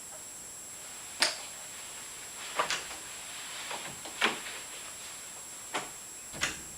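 About six irregular knocks and clicks, a couple of them sharper than the rest, over a steady faint hiss.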